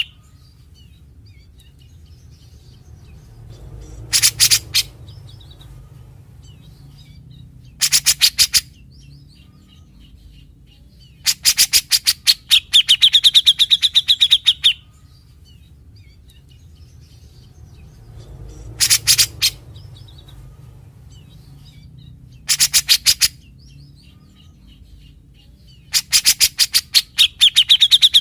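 Grey-cheeked bulbul (cucak jenggot) singing in harsh, rapid rattling phrases, the scratchy 'besetan' notes the bird is known for. The phrases come in bursts of half a second to about three seconds with pauses of a few seconds between, and the same sequence repeats about fifteen seconds later.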